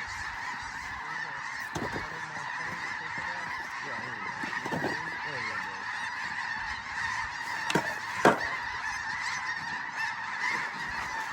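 A huge flock of snow geese calling overhead: a dense, steady chorus of high-pitched honks. Two sharp, louder sounds stand out about eight seconds in.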